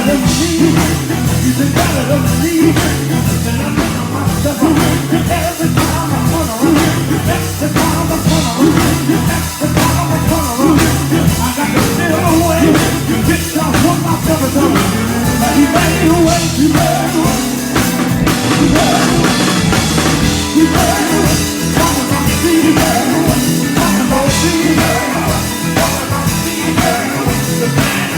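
Live gospel band music: singing over a drum kit and other instruments, with a steady, driving beat.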